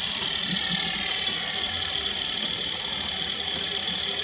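Twin brushed electric motors (main and tail) of a WLtoys V915-A Lama scale RC helicopter running in flight: a steady high-pitched whine with the rotor whirring, its pitch drifting slightly as the throttle changes.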